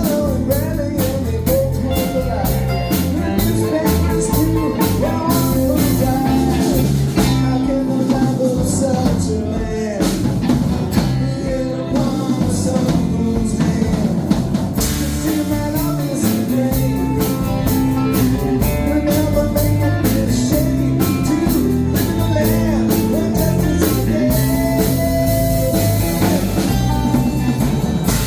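Band playing blues-rock music, with drum kit and guitar keeping a steady beat.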